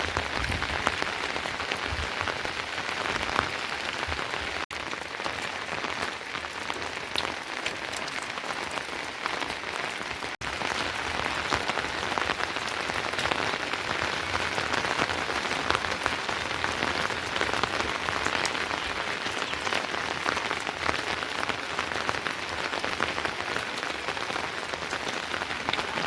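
Steady rain falling, a dense patter of drops hitting a surface. The sound breaks off for an instant twice, once about a third of the way in and once just before the middle.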